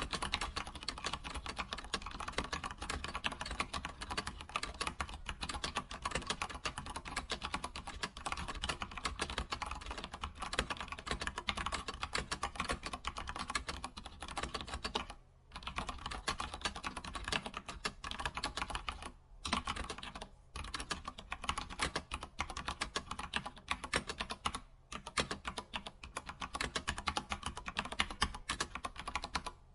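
Computer keyboard typing: a fast, continuous stream of key clicks, broken by a few brief pauses about halfway through and later on.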